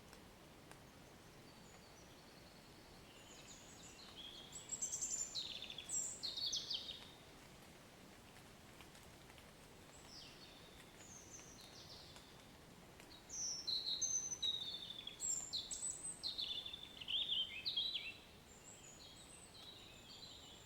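A songbird singing in two bouts of quick, high chirps and warbles, a short one a few seconds in and a longer one in the second half. Under the song lies a faint, steady hiss of light rain.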